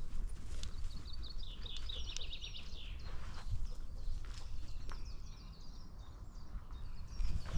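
Woodland birds singing, with a rapid high trill from about one and a half to three seconds in and scattered short chirps after it. Under them is a steady low rumble of movement noise on a dog-mounted camera.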